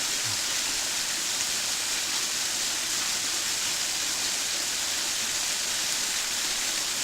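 Waterfall water splashing steadily onto rock, a thin dry-season flow, heard as an even, unbroken hiss.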